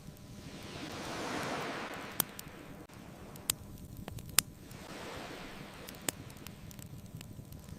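Ocean waves washing in twice, each swelling and fading over a few seconds, with a few sharp pops from a crackling bonfire, the loudest about four and a half seconds in.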